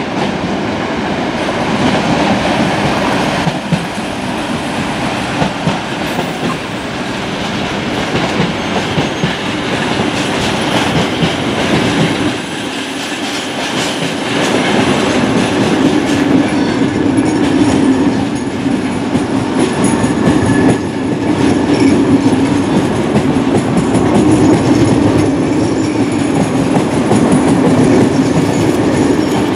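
A train running along the track: a steady rolling noise with clickety-clack from the wheels, and a low hum that grows louder in the second half.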